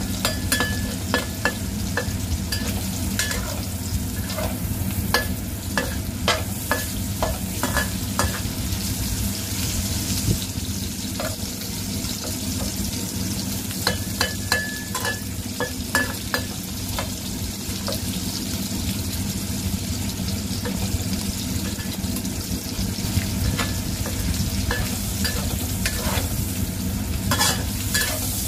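Salted fish pieces sizzling in hot oil in a stainless-steel wok, with a metal spatula scraping and clinking against the pan as they are stirred. The sizzle is steady; the clinks come in clusters in the first several seconds, again about halfway through and near the end.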